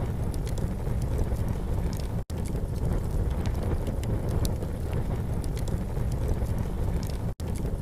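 Campfire burning, with scattered small crackles and pops over a steady low rush. The sound cuts out very briefly twice, about two seconds in and again near the end.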